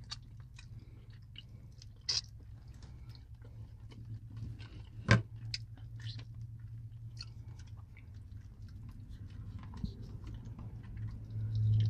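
Close chewing and mouth sounds of people eating barbecue chicken and collard greens, with small clicks from forks and plastic takeout containers. There is a sharp knock about five seconds in, and a steady low hum underneath.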